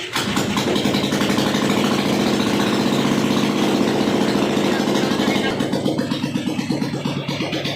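Royal Enfield Bullet Standard 350's single-cylinder engine starting and running at a raised idle, then settling to a slower idle with distinct, evenly spaced beats about five and a half seconds in.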